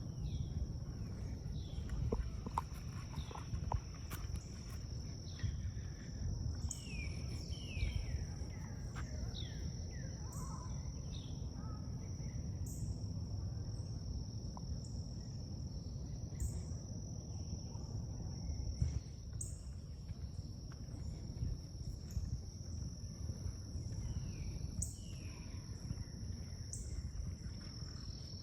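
Forest ambience: a steady high-pitched insect drone, with birds calling in short falling chirps and brief high notes that recur every second or two. A constant low rumble runs underneath.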